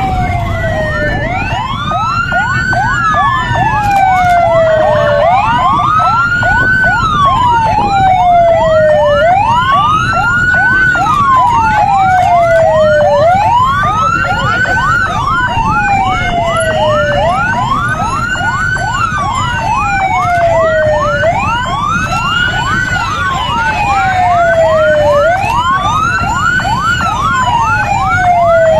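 Electronic vehicle siren in a wail pattern, its pitch rising and falling about every four seconds. A faster yelp sweeps several times a second alongside it.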